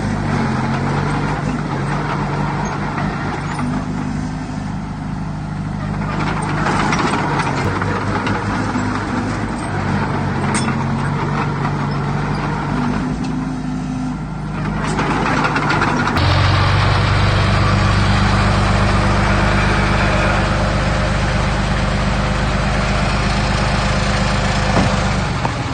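Heavy diesel engine of earthmoving machinery running, its pitch shifting a few times. About two-thirds of the way in it gets louder and fuller, as if working under heavier load.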